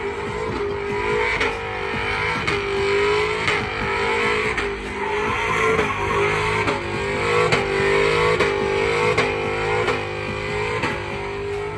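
Vehicle engine held at high revs through a burnout, its pitch wavering, with tires squealing against the pavement.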